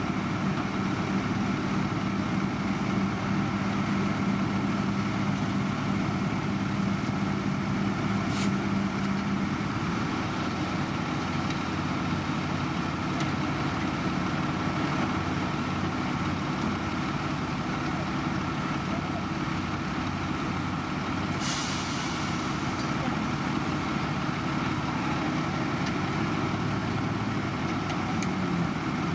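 Heavy diesel machinery of a road construction site running steadily, a deep engine hum with a steady tone that drops away about a third of the way in. There is a sharp click near 8.5 s, and a short burst of air hissing about two-thirds through, like an air brake being released.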